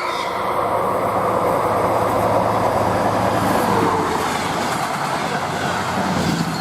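DR1AM diesel multiple unit passing at speed: a steady, loud rush of wheels on rail with the low hum of its engine underneath.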